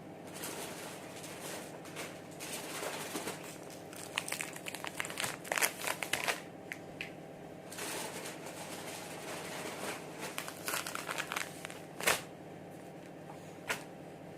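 Irregular crinkling and rustling handling noises, with a few sharper clicks, over a steady low hum.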